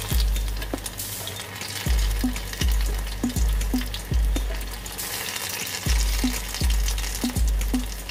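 Battered seri roots frying as tempura in a pot of hot oil: a steady sizzle with fine crackling. Background music with a steady bass beat plays along with it.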